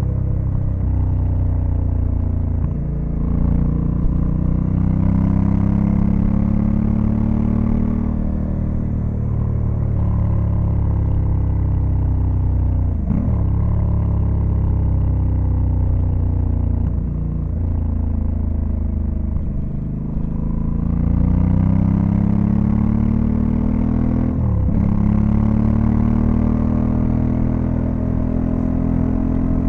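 Honda Africa Twin CRF1100L's 1084 cc parallel-twin engine under way. The revs climb and sink with the throttle, with brief breaks for gear changes about 13 and 25 seconds in.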